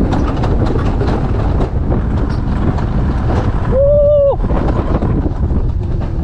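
Alpine coaster sled running fast down its rail track: a steady rumble with rapid clattering and wind on the microphone. About four seconds in a rider gives a brief held shout.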